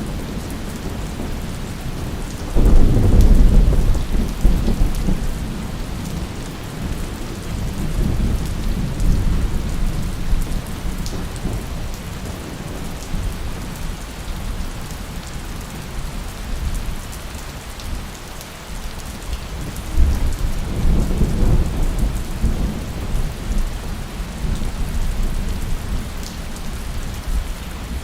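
Steady heavy rain with thunder: a loud roll of thunder begins a few seconds in and rumbles on for several seconds, and a second roll comes about two-thirds of the way through.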